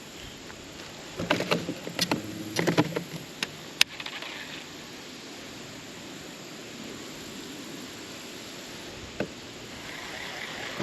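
A cluster of knocks and clatters in a small fishing boat, with one sharp click a moment later, then steady wind and water noise.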